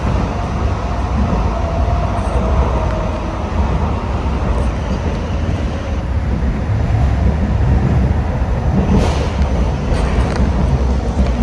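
Hong Kong Light Rail Phase III car running along the track, a steady low rumble of wheels and motors heard from aboard. About nine seconds in there is a sharp clank, followed by a couple of lighter knocks.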